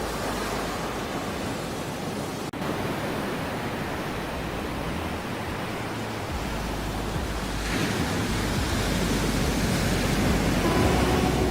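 Ocean surf: a steady wash of waves that swells louder about two-thirds of the way through, with a brief gap in the sound a couple of seconds in.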